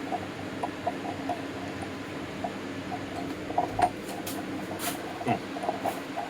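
Electric fan running steadily, with light metal clicks and a few short scrapes from hand tools being worked on an engine block; one sharper click a little under four seconds in.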